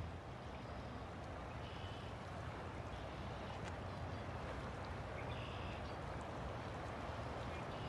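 River water flowing steadily, with a few faint short high chirps over it.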